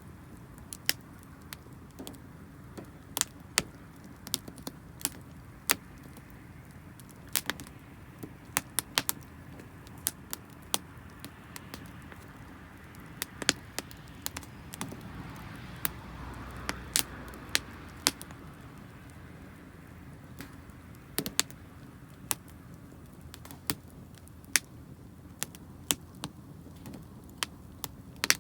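Wood fire crackling, with irregular sharp pops and snaps, sometimes several close together. The firewood burning is damp.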